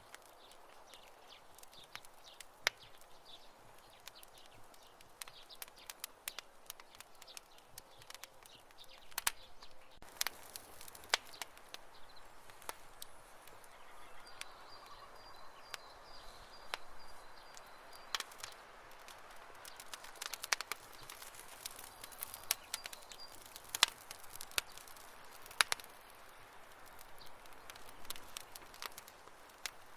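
Wood campfire crackling: irregular sharp pops and snaps over a faint hiss. A faint high chirping comes in about halfway through.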